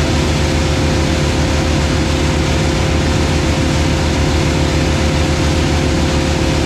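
Heavy machinery of a wood chipper being fed by an excavator, engines running steadily at a constant pitch with a steady hum and whine and no distinct chipping impacts.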